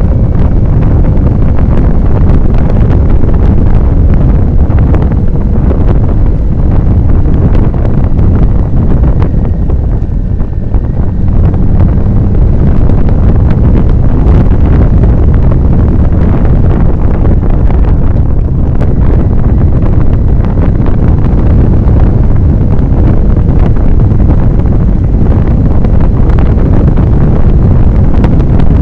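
Loud, steady wind rush buffeting the microphone of a camera on a moving motorcycle, mostly low and rumbling, easing slightly about ten seconds in.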